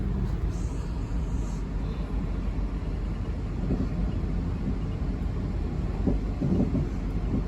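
Steady low rumble of a South Western Railway Class 444 electric train running along the track, heard inside the carriage, with a few faint knocks in the second half.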